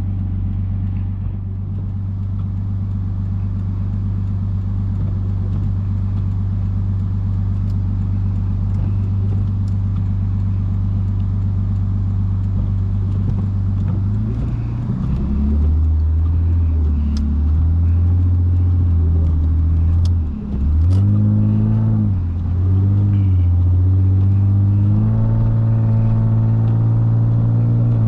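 Lexus IS250's 2.5-litre V6 engine and exhaust running as the car is driven: a steady low drone for the first half, then the pitch rises and falls several times, with a brief drop about 20 seconds in, before settling to a steady, higher note near the end.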